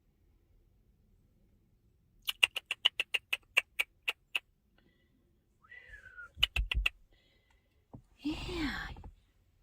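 A small animal's high chirps and squeaks, about ten in quick succession, later a faint falling high call and a short falling cry.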